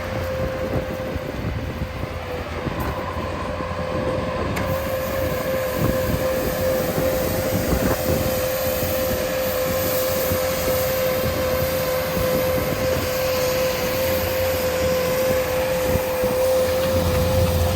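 A steady machine drone: one constant whine held at the same pitch over a low rumble, without a break.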